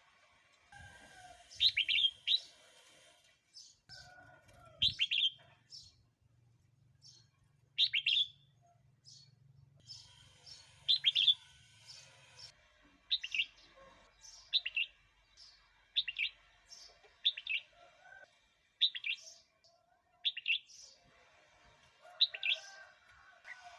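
Red-whiskered bulbul singing: short, bright whistled phrases repeated every second or two, coming more regularly in the second half.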